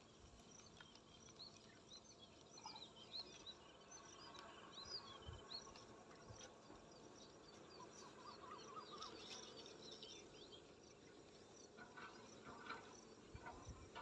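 Near quiet, with faint chirping of small birds: many short, quick calls, thickest over the first ten seconds.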